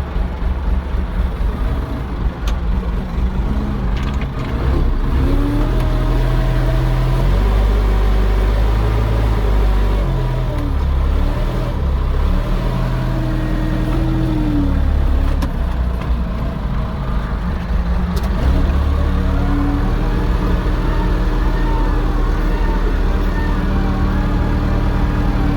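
Tractor engine working hard, its note rising and falling as it is revved up and eased off several times.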